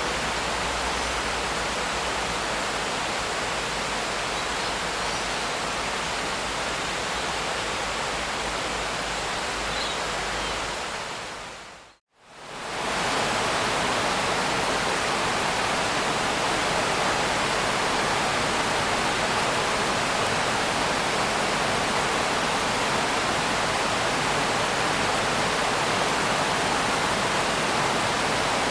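Steady hiss of heavy rain, an even wash with no distinct drops. About twelve seconds in it fades down to silence and straight back up, slightly louder and without the low rumble it had before: a join in the looped rain recording.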